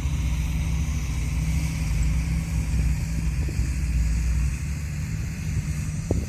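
Heavy diesel engine of earthmoving machinery running steadily under load with a deep drone, easing slightly near the end.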